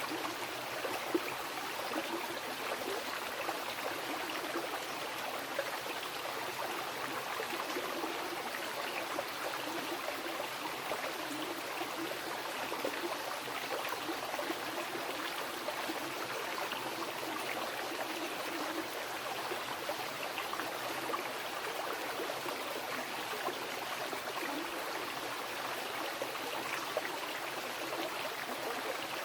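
Mountain river flowing over rocks: a steady rush of water with small splashes and trickles.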